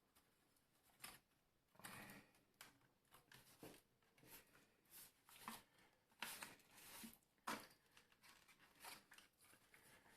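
Faint, scattered clicks and scrapes of a Tefal steam iron's plastic housing and parts being handled and worked open during disassembly.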